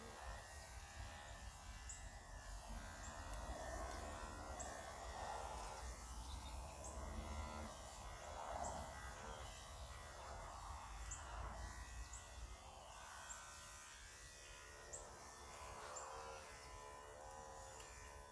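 Quiet outdoor ambience: a bird gives a short high chirp every second or two over a faint steady hum and a low rumble of wind on the microphone.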